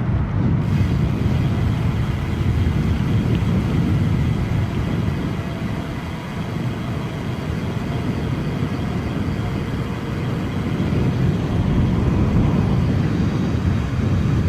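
Steady low rumble of wind buffeting an action camera's microphone while a mountain bike is ridden, with tyre noise mixed in.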